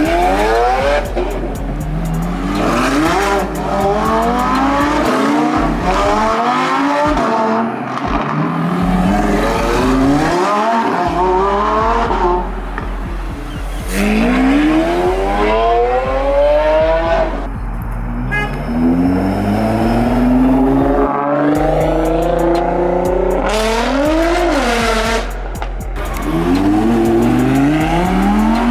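Supercar engines revving hard and accelerating away one after another, the pitch climbing steeply and dropping back at each gear change, a dozen or so times.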